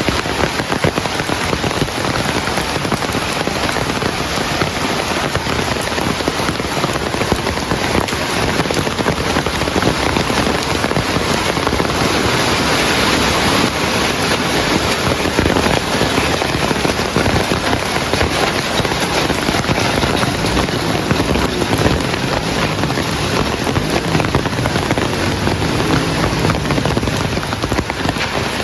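Heavy rain falling steadily on surfaces, a dense even patter of drops with no let-up.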